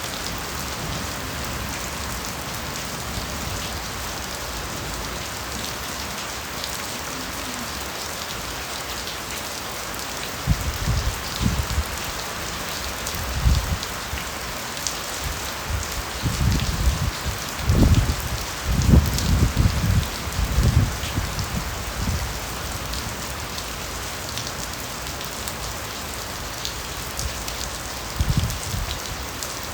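Steady rain falling in a bamboo forest: an even hiss with scattered drop ticks. About a third of the way in, low rumbling swells start and come and go for ten seconds or so, then return near the end.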